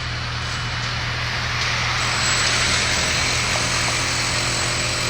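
Steady engine rumble with a rushing noise that swells about two seconds in.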